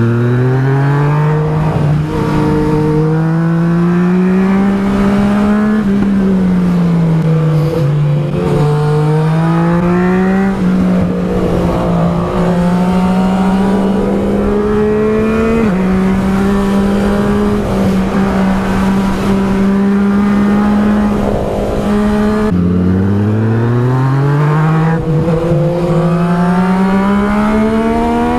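Yamaha MT-09 SP's three-cylinder engine through an Akrapovic exhaust, heard onboard under hard riding: engine pitch climbs and falls with throttle, holds fairly steady for several seconds mid-way, then drops sharply near the end and climbs again as it accelerates.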